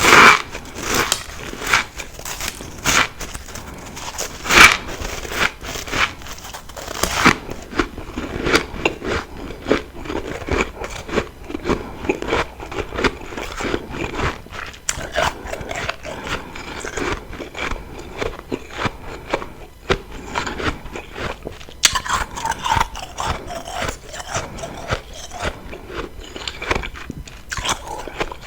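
Refrozen freezer frost being bitten and chewed, close to the microphone. A few sharp crunchy bites come in the first seven seconds, the loudest about four and a half seconds in, followed by continuous crackly crunching as the frost is chewed.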